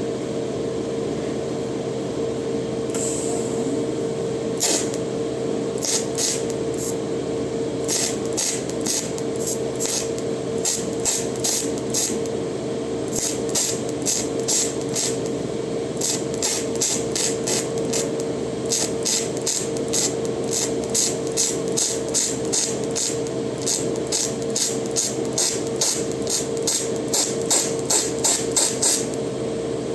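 Brass welding: short, sharp hissing crackles repeat irregularly, about one or two a second, and come faster in the second half. Under them runs a steady machine hum with a single tone.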